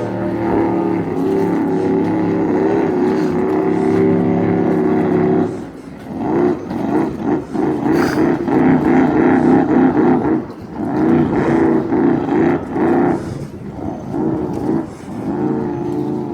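Jet boat's 427 big-block V8 running steadily, then dropping off about five and a half seconds in and revving up and down several times.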